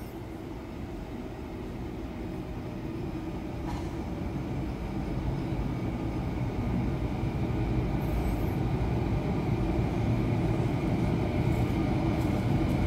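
Train approaching the station platform, a low rumble that grows steadily louder, with a faint steady whine rising toward the end.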